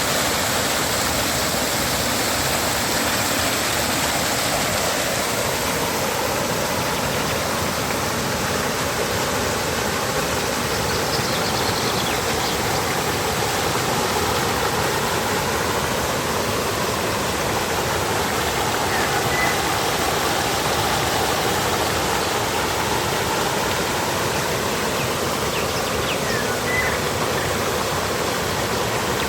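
River water flowing and rushing steadily, a constant even sound of running water.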